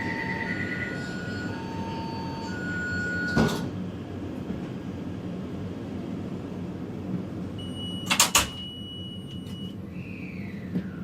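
Steady rumble inside a Taipei Metro train carriage at a station stop, with electronic beeping tones that alternate in pitch at the start. There is a single sharp knock about three and a half seconds in, and a quick cluster of three sharp bursts a little past the middle, typical of the sliding doors working.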